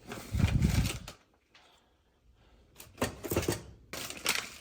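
Grocery items and their packaging being handled and set down: a burst of rustling and knocking about a second long, a quiet pause, then more clattering toward the end.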